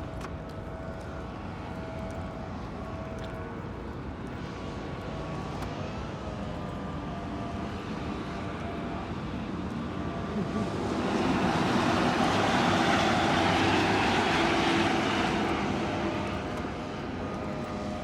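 Road vehicle noise: a steady hum with a few faint steady tones, and a louder rushing swell about eleven seconds in that fades out a few seconds later, like a vehicle passing or speeding up.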